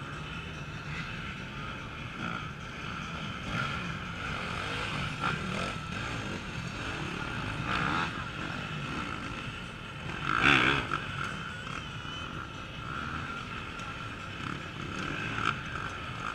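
Off-road enduro motorcycle engines revving and running at varying distance, with one bike getting loud and close about ten seconds in.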